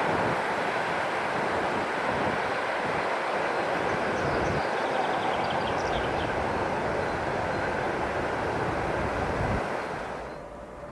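Freight train rolling past, a steady loud rush of wheel and wagon noise that drops away sharply near the end.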